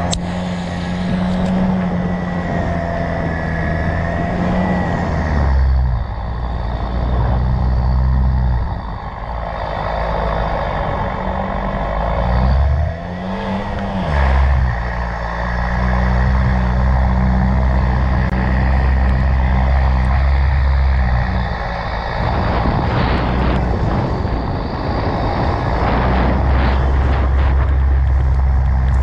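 Land Rover Freelander's engine running under load as it ploughs through deep snow, with a rushing noise of tyres and snow spray against the body. The engine note drops about five seconds in and briefly rises and falls again near the middle.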